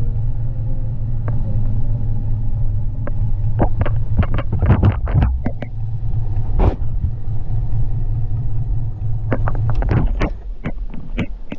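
Steady low rumble of a moving vehicle. A run of sharp knocks and clatters comes about four to six seconds in, a single sharp crack near seven seconds, and more clattering near the end, after the rumble drops away.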